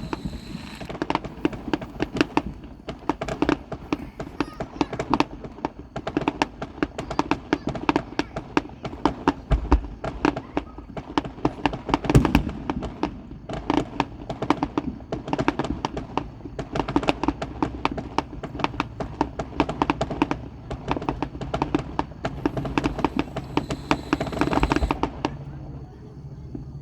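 Fireworks going off in a rapid, continuous string of cracks and pops, several a second, with an occasional deeper boom.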